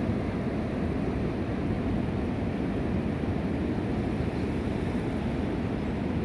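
Steady low rumbling noise throughout, with no calls or distinct events standing out.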